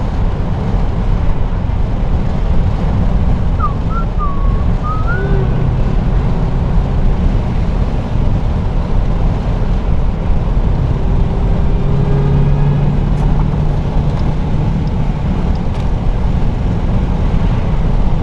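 Steady low rumble of a 2023 Dodge Durango SRT Hellcat on the move, its supercharged 6.2-litre V8 and tyres heard from inside the cabin, still on the stock mufflers. A few brief high chirps come about four seconds in, and a low drone swells briefly about twelve seconds in.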